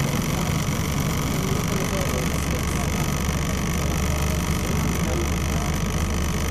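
Scania L94UB single-decker bus under way: a steady engine and drivetrain drone with a continuous high-pitched grinding whine over it, the grinding noise this bus is known for.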